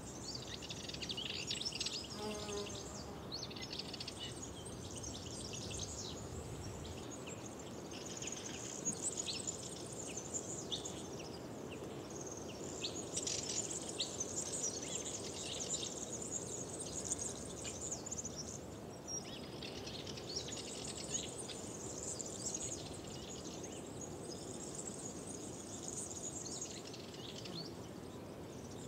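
Several songbirds singing and chirping over a faint steady background hiss, with short high phrases coming and going throughout.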